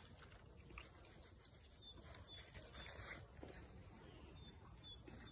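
Near silence with a few faint, short, high bird chirps.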